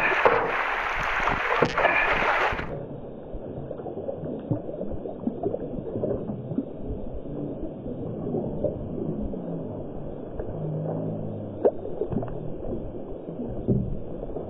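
River water rushing loudly for about the first three seconds, then cutting off suddenly to muffled gurgling and knocking, as heard with the microphone underwater.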